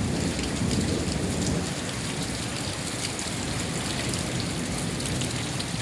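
Thunderstorm wind and rain: an even rushing noise with a low rumble underneath, slightly louder in the first couple of seconds.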